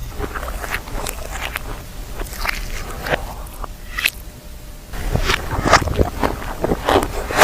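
Close-miked eating sounds played backwards: irregular crunchy bites and wet, squishy chewing clicks.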